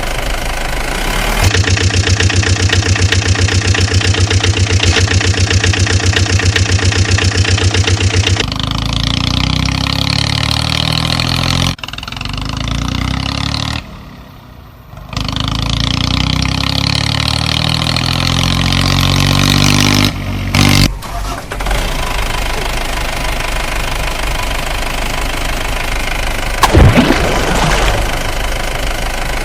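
Engine running in several cut-together stretches: steady idling with an even pulsing beat, and stretches where the pitch rises and falls as it revs.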